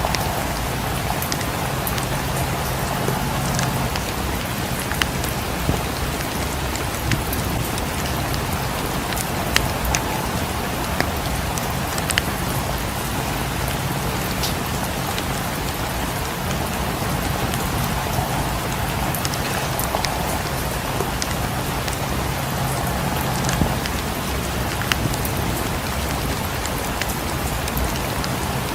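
Steady rain falling, an even hiss, with scattered sharp clicks throughout.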